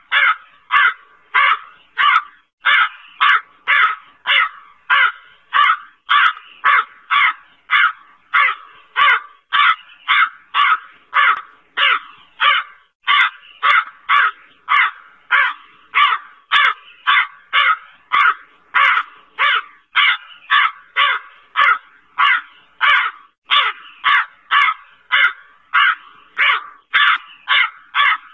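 Black crow cawing over and over in an even, unbroken series of harsh caws, about two a second.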